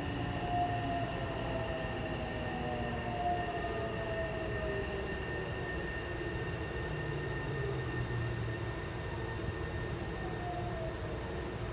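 Tokyo Metro 7000 series electric train with Hitachi IGBT VVVF inverter, heard on board: the traction-motor whine falls in pitch as the train slows, over a steady wheel-on-rail rumble and a constant high tone.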